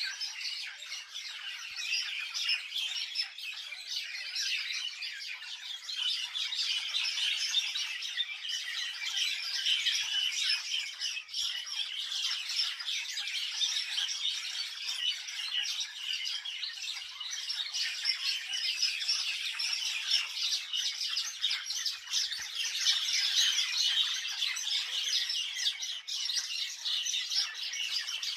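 A flock of many birds chirping and calling at once, a dense, unbroken chatter of short high calls.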